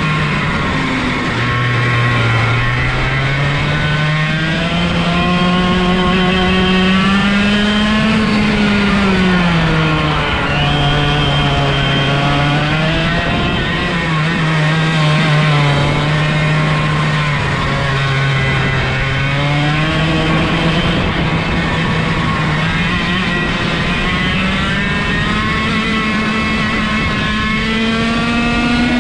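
Single-cylinder 125cc two-stroke go-kart engine, direct drive with no gearbox or clutch, running at full throttle. Its revs climb and fall several times as the kart speeds up and slows, with a long steady rise near the end.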